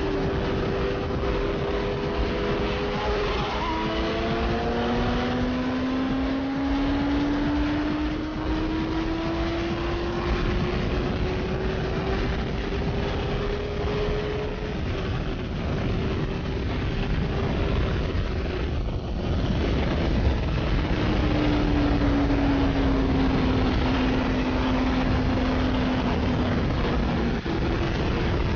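Sport motorcycle engine at high speed under a heavy rush of wind noise. The engine note climbs slowly in pitch for the first dozen seconds, and a second, lower note falls gently near the end.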